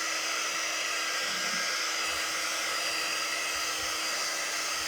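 Hair dryer blowing steadily with a constant hum, drying chalk paste on the board before a transfer is laid over it.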